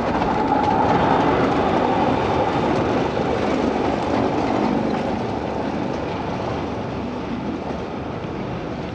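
Electric rack-railway train, wooden carriages pushed by a Swiss SLM electric motor car, running past on the rack track. It grows slowly quieter as it moves away.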